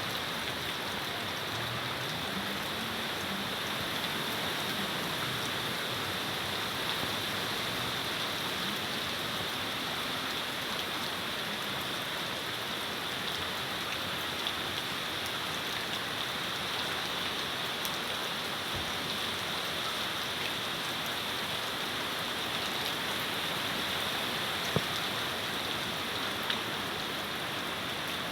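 Steady rainfall spattering on surfaces in an even hiss, with a few sharper single drip impacts standing out now and then.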